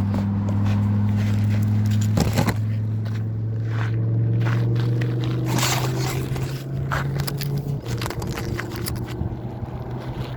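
Car engine and cabin running with a steady low hum that shifts about eight seconds in, with scraping, rustling and clicking sounds on top.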